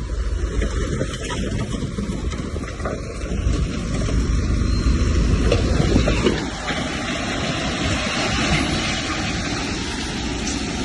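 Heavy earthmoving machinery running on site, with a steady deep engine rumble that eases off about six seconds in.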